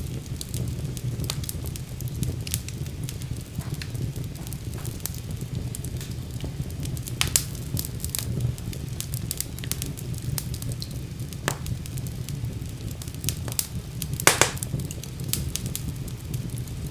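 Wood fire burning in a fireplace: a steady low rumble of flames with frequent sharp crackles and pops, two louder pops about a third of the way in and near the end.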